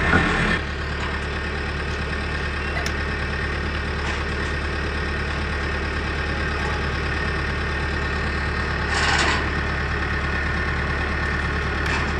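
An engine idling steadily, with a short hiss-like burst about nine seconds in.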